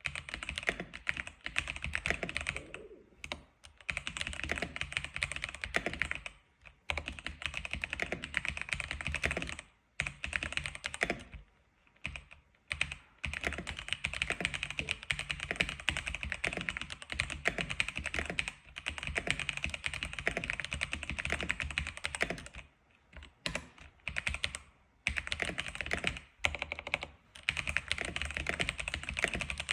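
X87 keyboard being typed on quickly, keystrokes clattering in long continuous runs broken by short pauses every few seconds.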